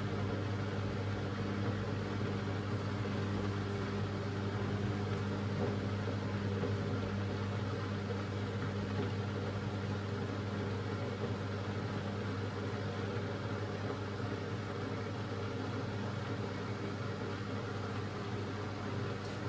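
Beko WMB 71643 PTE washing machine running mid-cycle with a steady, even hum.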